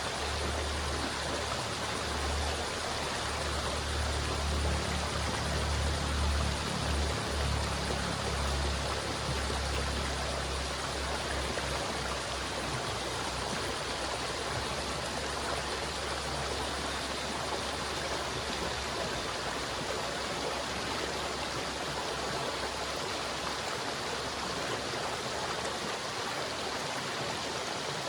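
River water flowing steadily, a continuous rushing hiss. A deep low rumble runs under it for roughly the first twelve seconds, then fades.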